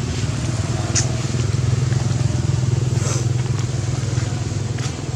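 An engine running steadily, with a few sharp clicks about one and three seconds in.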